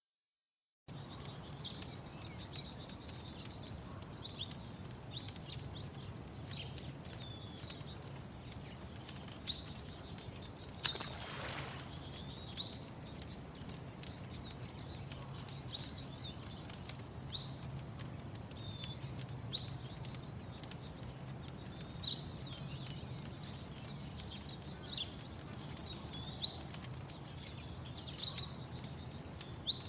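Outdoor morning ambience starting about a second in: small birds giving short, high chirps again and again over a steady low rumble, with scattered faint crackles and one brief whoosh about eleven seconds in.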